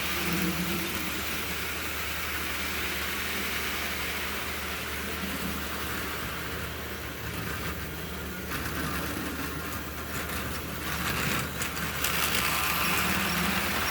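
Thomas the Tank Engine model train running around the track, its small electric motor whirring and its wheels clattering on the rails. It sounds a little quieter for a few seconds, then louder again near the end as it comes back around.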